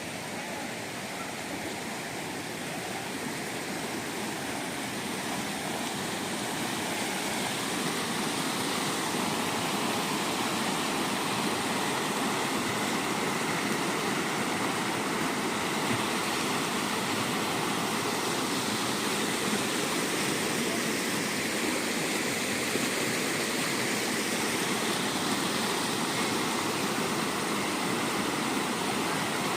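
Steady rush of running water, growing a little louder over the first several seconds and then holding even.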